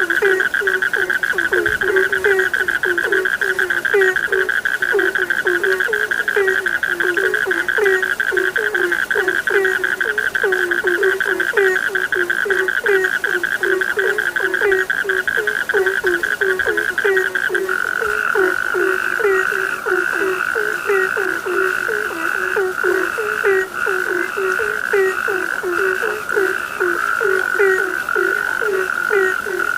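A chorus of frogs croaking, with quick, repeated low calls over a continuous high trilling that shifts to a different, wavering trill about two-thirds of the way through.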